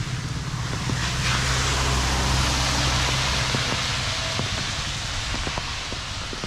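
A vehicle passes on a rain-wet street: an engine hum and a hiss of tyres on the wet road swell about a second in and fade away, with scattered raindrop ticks throughout.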